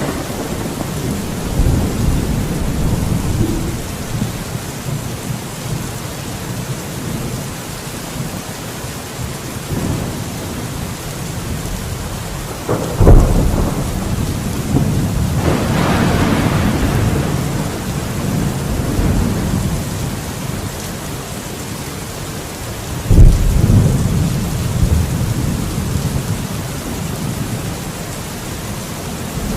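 Steady rain with rolling thunder. Two sharp, loud thunderclaps crack about 13 and 23 seconds in and rumble on, with a long rolling peal between them.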